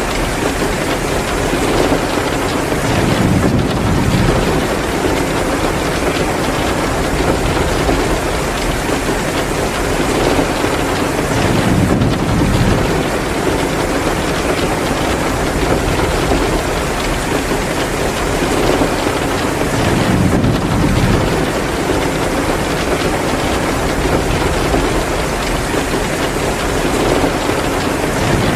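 Heavy rain pouring steadily, mixed with a crackling log fire in a fireplace. The rush swells in a deeper surge about every eight seconds.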